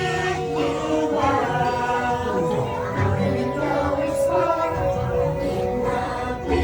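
Dark ride's onboard soundtrack playing music with voices singing.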